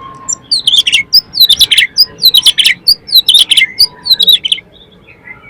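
Oriental magpie-robin (kacer) singing loudly: a quick run of sharp whistled notes that sweep downward, about two a second, stopping shortly before the end.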